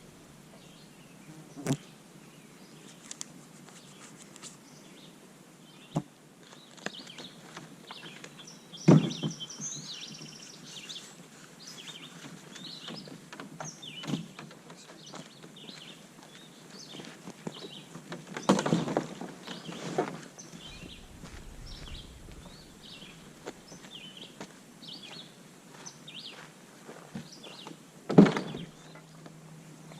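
Small birds chirping in the background, broken by about six sharp knocks and thunks spread through the stretch, three of them much louder than the rest.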